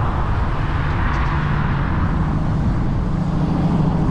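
Steady road traffic noise heard from a moving e-bike, with a low engine hum coming in about halfway.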